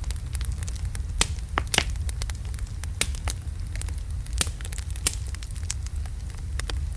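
Wood logs burning in a fireplace: a steady low rumble of flame with frequent sharp crackles and pops, several louder pops scattered through.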